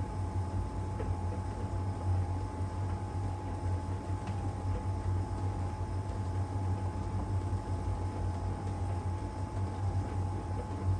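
LG heat pump dryer running in its drying phase: a steady low hum with a constant higher whine over it, and a couple of faint ticks.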